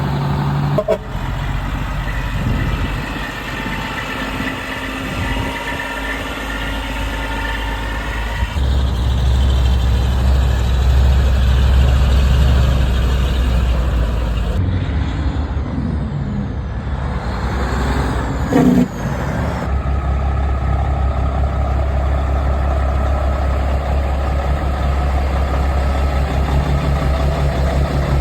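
Heavy trucks' diesel engines running, heard in several short clips that change abruptly, with a brief horn toot about a second in and another near two-thirds of the way through.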